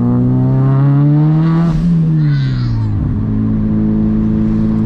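Audi 1.8T turbocharged four-cylinder engine under acceleration: the revs climb for nearly two seconds, then fall as the throttle closes, with a short hiss of air about two and a half seconds in. It then runs at a steady speed.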